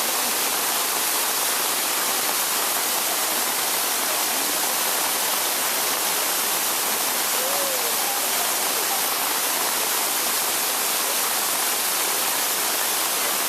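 Waterfall's water rushing, a steady, even wash of noise with no breaks.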